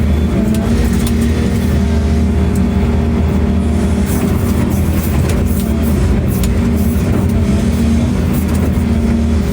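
An engine running steadily at a constant speed, with a low, even hum and no revving.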